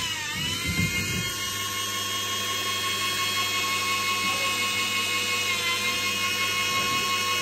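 A steady high-pitched electric motor whine made of several tones, dipping briefly in pitch just after the start and again near the end.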